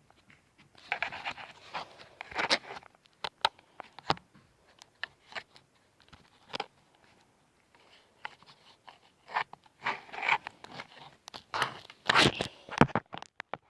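Irregular clicks, knocks and short scrapes of small hard objects being handled and moved about, with a cluster of louder clatter near the end.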